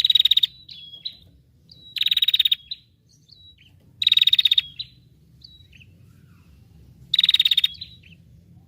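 A small songbird repeating a fast, buzzy trill four times, each under a second long and followed by a couple of short thin notes, with pauses of a second or two between phrases.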